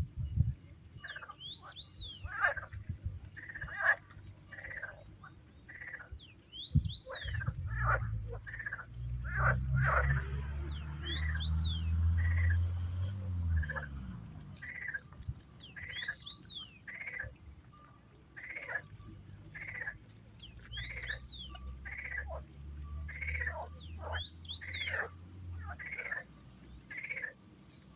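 Outdoor animal calls: a run of short calls repeating about twice a second, with a higher, quickly falling bird chirp every two or three seconds. A low rumble comes and goes underneath.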